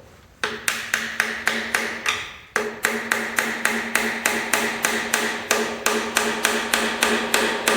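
Rapid hammer blows, about four a second, on the stamped-steel oil pan of a 351 Windsor V8, each strike leaving the pan ringing. There is a short pause partway through. The hammering is meant to break the old gasket seal and free the pan from the block.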